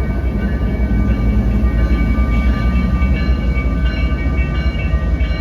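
Freight diesel locomotive pulling a train past, a heavy low rumble with thin high-pitched tones from the wheels and rails coming and going over it.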